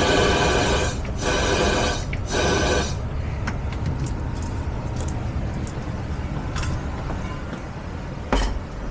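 Pressurised gas hissing out of a nozzle in three short blasts with a faint whistle, blowing out a condensate drain line to clear it. Then a steady low hum, with a single knock near the end.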